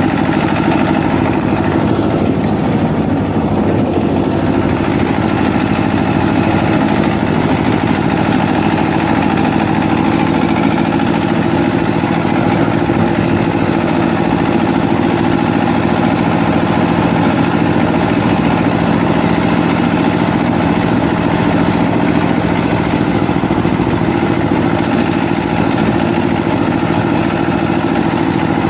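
Eicher 364 tractor's diesel engine running at a steady, even speed, loud and unchanging throughout.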